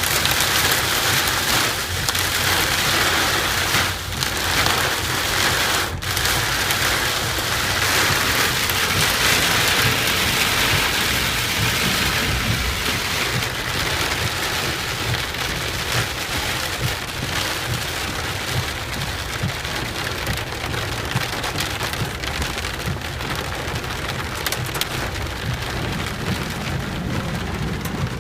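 Heavy rain pouring down in a thunderstorm, a dense steady hiss with a low rumble underneath; the rain eases a little near the end.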